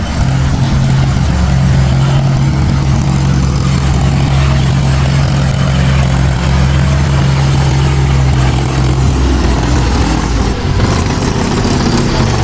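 Heavy diesel engine running steadily with a deep, even hum that eases off about nine seconds in, while a low rumble carries on.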